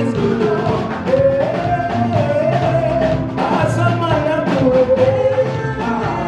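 Live praise-and-worship music: a voice sings a drawn-out, wavering melody over a band with a steady bass and drum kit.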